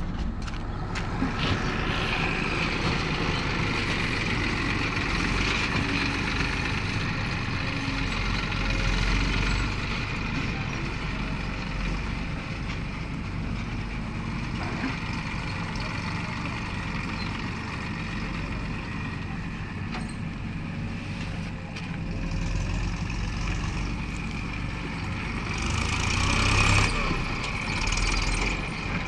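Diesel engine of a JCB backhoe loader running steadily under working load, with a steady high whine over the engine note. It swells louder briefly near the end.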